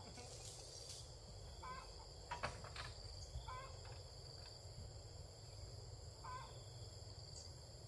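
Quiet rural outdoor ambience: a bird repeats a short call every couple of seconds over a steady high insect drone and a faint low rumble, with a couple of soft clicks near the middle.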